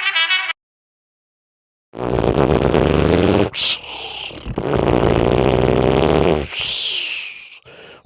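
A man imitating a car engine with his mouth: a loud, low buzzing rev starts about two seconds in, broken twice by short hissing sounds, and dies away near the end.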